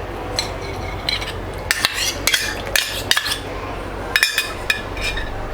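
A kitchen utensil clinking and scraping against a mixing bowl of cake batter, in a dozen or so irregular strikes, over a steady low hum.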